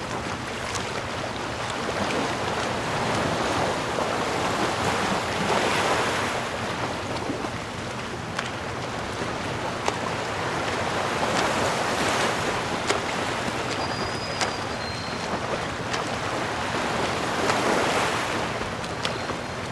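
Sea waves washing onto the shore, a steady rush of surf that swells up and breaks about every six seconds.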